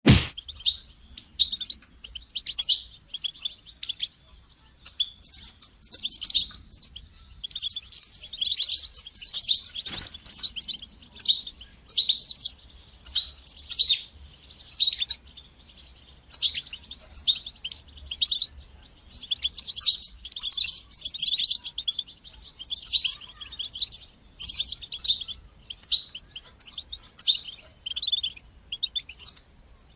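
European goldfinch singing: rapid, high twittering phrases in bursts of a second or two, separated by short pauses.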